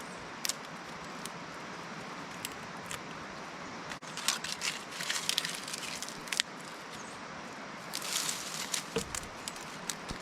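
A freshly lit fire starter of paper tube, dryer lint and dryer sheet catching under damp kindling: irregular crackling and snapping, with two denser spells of crackles, one in the middle and one near the end, over a steady outdoor hiss.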